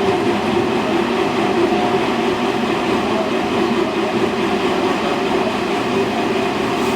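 Semboku 5000 series electric train running at steady speed, heard from inside the car: a steady rumble of wheels and motors with a faint steady hum from the Hitachi SiC VVVF inverter drive.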